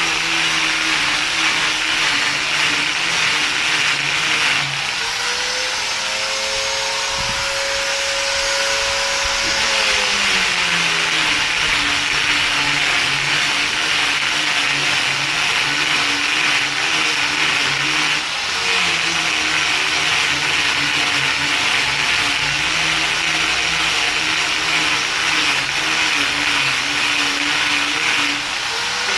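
An electric motor, such as a power tool's, running continuously. About five seconds in its pitch rises and holds higher for around five seconds, then falls back to its earlier speed, with two brief dips later on.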